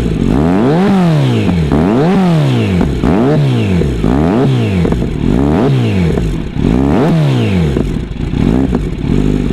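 2021 Kawasaki Z900's 948 cc inline-four engine being revved in a string of quick throttle blips, about one a second, the exhaust note rising and falling with each one. The last couple of blips near the end are softer.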